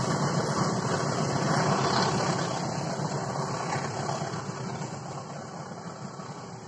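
Passenger train coaches rolling along the rails as the tail of the train passes and pulls away, the rumble fading steadily.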